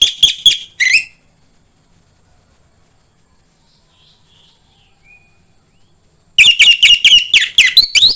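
Orange-headed thrush song: fast runs of loud, sharp repeated notes, about six or seven a second, for about a second, then a pause of several seconds, then another fast run starting about six seconds in. A faint high steady hiss shows in the gap.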